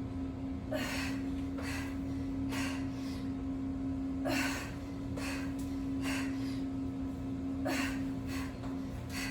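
A woman breathing hard and fast through a set of push-ups, with a sharp breath about once a second: heavy breathing from exertion and fatigue. A steady low hum runs underneath.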